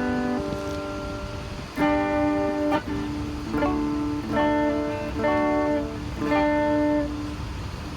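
Guitar chords strummed one at a time, each left to ring for about a second before the next, about seven chords in all.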